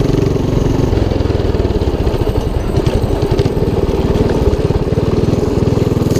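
212cc single-cylinder engine of a Motovox mini bike running steadily while being ridden.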